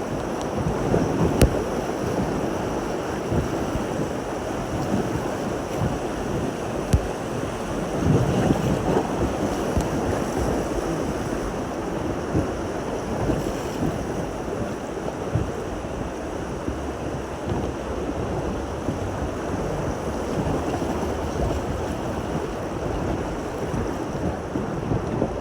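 River water flowing and splashing around a raft, with wind buffeting the microphone and a few light knocks.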